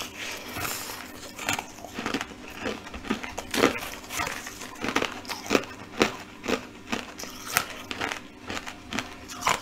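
A person chewing a mouthful of brittle, brightly coloured crystal-like pieces, with sharp crunches about twice a second.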